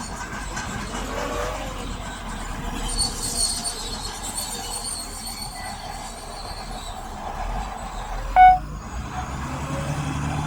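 Heavy earthmoving machinery working, with a low diesel rumble and metallic squealing throughout. A short, loud, high squeal comes about eight seconds in.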